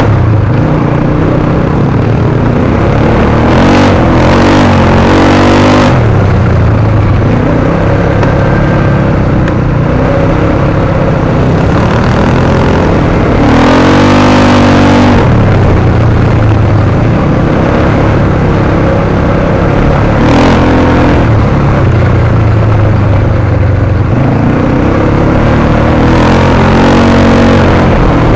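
Off-road car's engine running loudly under load on a rough dirt track, its revs climbing and dropping several times.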